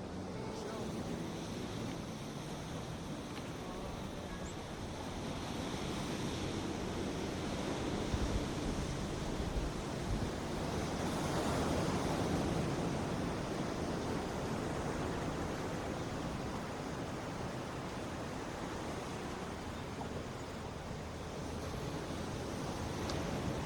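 Ocean surf breaking on a beach, a steady wash that swells to a peak about halfway through and eases off, with wind buffeting the microphone.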